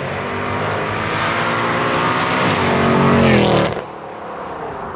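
V8 car exhaust under hard acceleration, the engine note climbing steadily in pitch and getting louder, then dropping away sharply about three and a half seconds in as it comes off the throttle.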